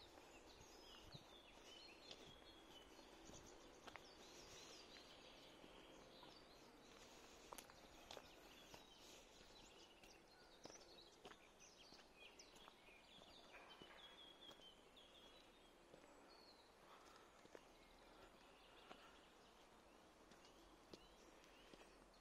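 Faint birdsong in woodland: several small birds chirping and trilling on and off over a quiet background, with a few soft footsteps on the path.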